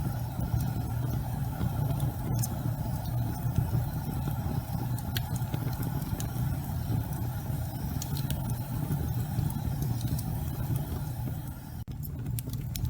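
Wood fire burning in a fireplace: scattered sharp crackles and pops over a steady low rumble. The sound briefly cuts out near the end.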